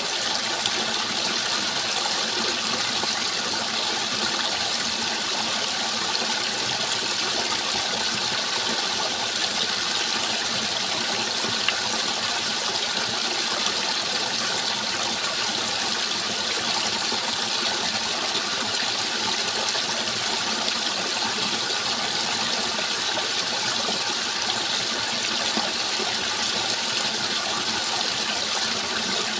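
Running water rushing steadily and evenly, with no change over the whole stretch.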